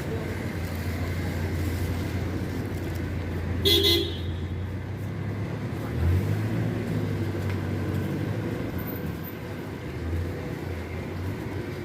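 Road traffic: vehicle engines running close by, with one short car horn toot about four seconds in and a vehicle pulling past about six seconds in.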